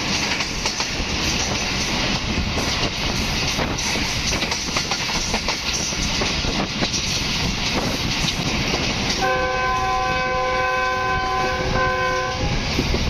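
Passenger train running at speed, its wheels clattering over the rail joints. About nine seconds in, a train horn sounds one long blast of several notes together, lasting about three seconds.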